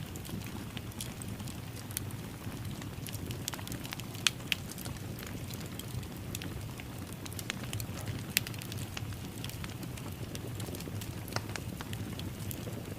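Wood fire crackling in a fireplace: a steady low rumble of flames with scattered sharp pops and snaps, a few louder pops about four seconds in and again a little after eight seconds.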